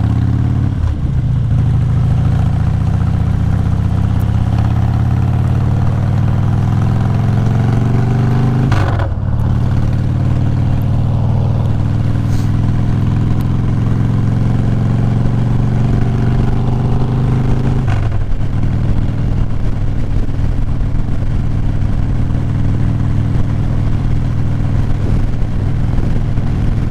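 Motorcycle engine pulling up through the gears, heard from the rider's helmet mic: the pitch climbs steadily, drops sharply at a shift about nine seconds in, climbs again, shifts again around eighteen seconds, then holds steady at cruising speed.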